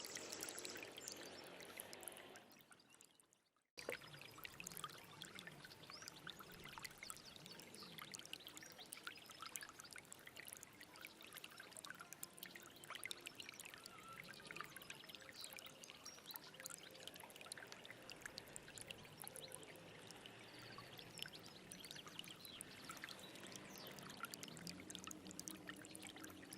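Small stream babbling and trickling over stones, a steady rush of water with many small splashes. About two seconds in it fades away to a moment of silence, then cuts back in abruptly.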